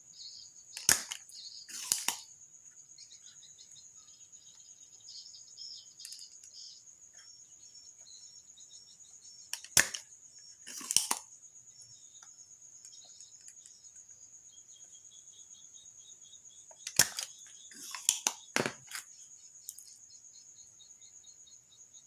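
Spring-loaded desoldering pump snapping three times, each sharp snap followed about a second later by a second, longer clatter, while solder is sucked from the relay pins on a refrigerator inverter board. Crickets chirr steadily behind.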